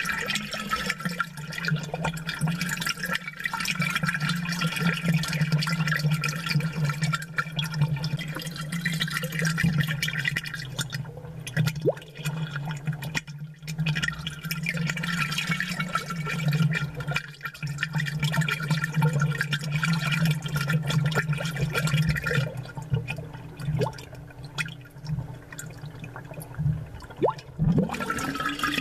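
Aquarium air bubbles gurgling and popping at the water surface, close-miked and amplified, over a steady low hum. The bubbling thins out for a few seconds in the latter part.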